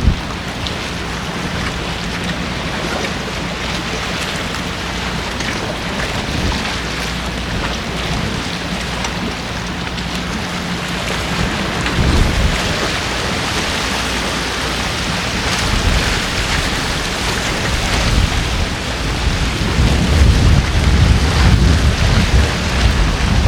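Strong wind gusting across the microphone: a steady rushing with low rumbling buffets that grow heavier through the second half.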